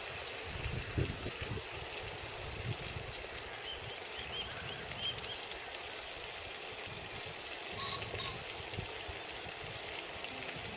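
Lakeside ambience: a steady rush of breeze and water lapping at the bank, with a few low bumps about a second in and some faint high chirps midway.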